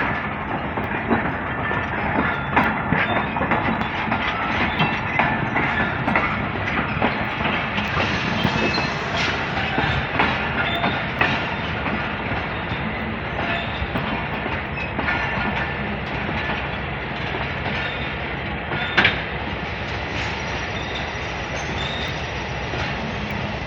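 Freight train wagons rolling past, wheels clacking irregularly over the rail joints with a steady rumble, and faint wheel squeal at times. One sharper, louder clank comes about nineteen seconds in.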